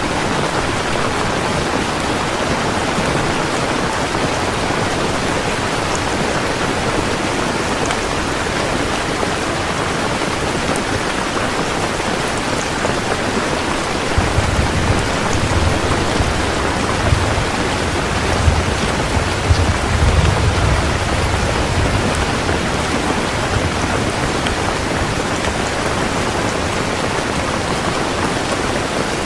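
Heavy rain falling in a steady, dense hiss. About halfway through, a low rumble of thunder swells for several seconds and then fades.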